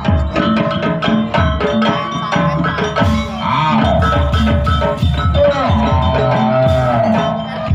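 Jaranan reog gamelan music: kendang hand drums beating a busy rhythm under steady ringing percussion, with a wavering melody line that bends up and down in pitch.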